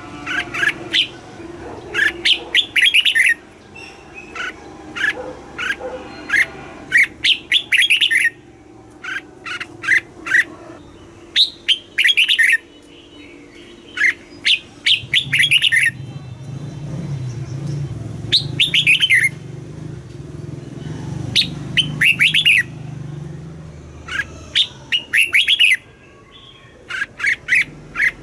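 Red-whiskered bulbul singing its short, quick, bright phrases over and over, a second or two apart. A low hum sits underneath for several seconds in the middle.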